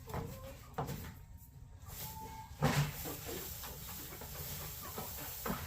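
Chickens clucking softly in a coop, with a few short knocks or rustles: one about a second in, one near the middle, and one near the end.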